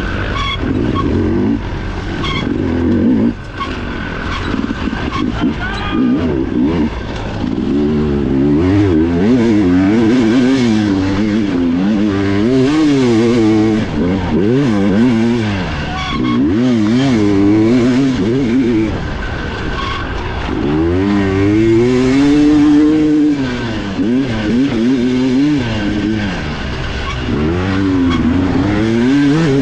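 Dirt bike engine heard from the rider's on-board camera, revving up and down constantly as the throttle is worked through a race special test, with a brief drop in revs about three seconds in.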